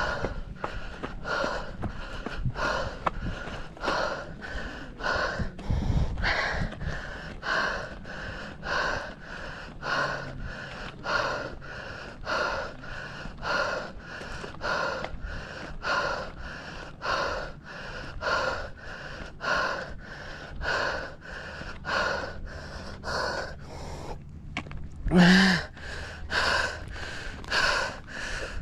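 A runner's heavy, rhythmic panting, about three hard breaths every two seconds, from the effort of running steeply uphill. About 25 seconds in, the breathing stops briefly and then comes back with one louder, voiced gasp.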